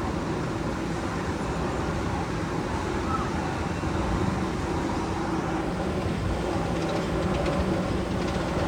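Magnum XL-200 tunnel sound effect: a steady train-like rumble with a low hum, with fast clattering clicks building near the end.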